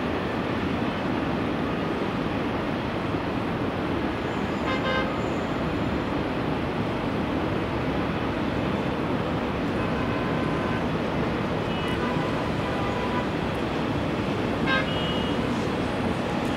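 A long freight train rolling past at a distance under steady city traffic noise, with brief horn toots about five seconds in and again about ten seconds later.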